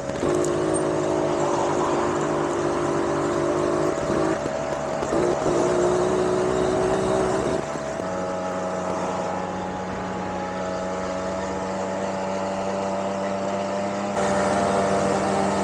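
Small 50cc two-stroke moped engine running steadily under load while riding uphill, over road and wind noise. Its note shifts in pitch about eight seconds in and again near the end.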